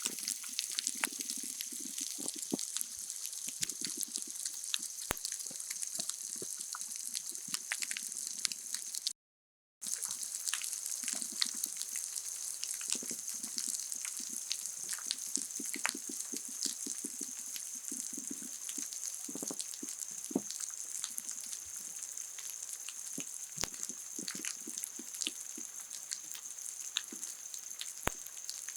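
Underwater hydrophone recording of a coral reef: a constant high crackle of countless clicks, overlaid by repeated low pulsed grunts that come in rhythmic runs. About nine seconds in the sound breaks off briefly, and the playback changes from triple speed to regular speed.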